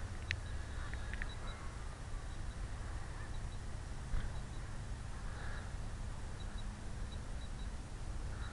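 Steady low rumble of wind on the microphone, with a few faint high chirps in the first second or so.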